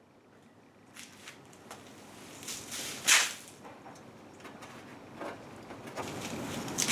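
Handling noises from fitting vehicle snorkel parts: scattered light knocks and clicks, with one louder, brief scrape about three seconds in and busier rattling near the end.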